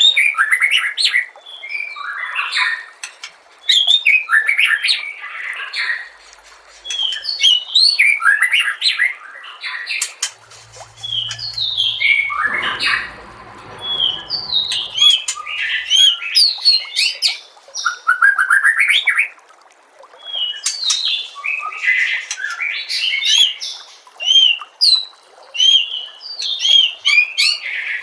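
White-rumped shama (murai batu) singing: rapid, varied whistled phrases and chattering runs, broken by short pauses. A low hum with a rumble lasts a few seconds in the middle.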